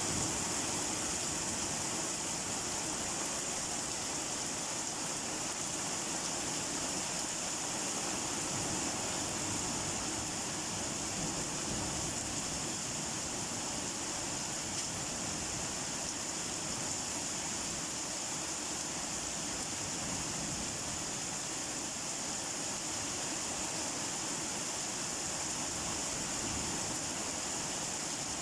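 Steady rain falling: an even, unbroken hiss, with no single drops or thunder standing out.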